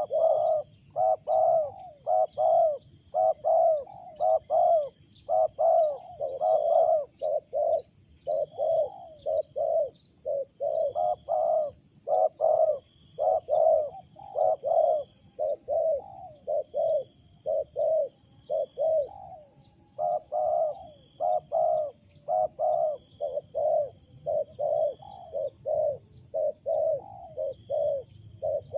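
Wild spotted dove (tekukur) cooing: a loud, unbroken run of short coo notes repeated about twice a second, in an unusual pattern. Small birds chirp faintly in the background.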